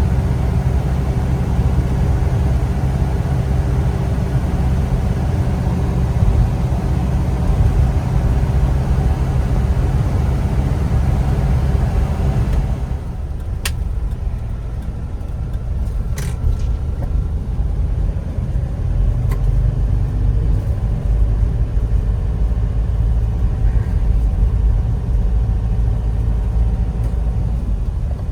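Motor vehicle running, a steady low engine and road rumble that thins out somewhat about halfway through, with a couple of short clicks.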